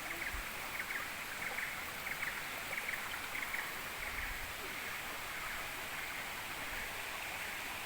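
Steady rush of water from a waterfall and its stream, with a run of short, high ticks over the first half.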